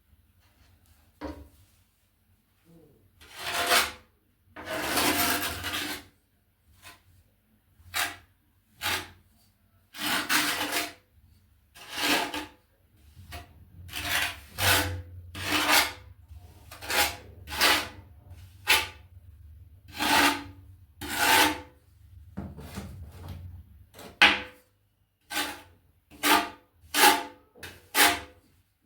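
Trowel scraping and spreading tile adhesive in about twenty irregular strokes, some short and some over a second long.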